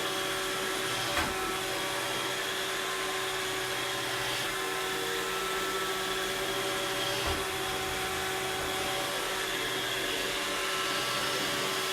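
Robot vacuum cleaner running with a steady motor whir and hiss, with two faint knocks about a second in and about seven seconds in.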